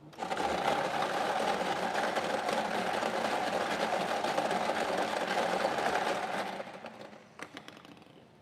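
Electric lottery draw machine running after its button is pressed: a steady motor hum with dense rattling. It holds for about six and a half seconds, then winds down and fades out.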